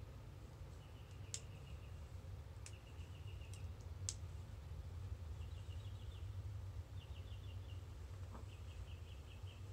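Short, high trilled chirps of a small bird, each a quick run of pulses, repeated every second or two over a low steady rumble. Four sharp clicks sound in the first half.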